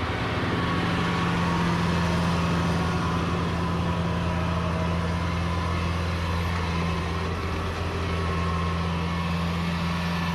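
Kubota rice combine harvester's diesel engine running at a steady, even pitch.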